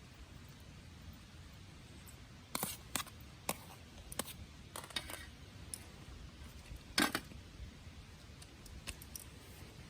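A scattered series of light clicks and knocks, a dozen or so irregular taps, the loudest about seven seconds in.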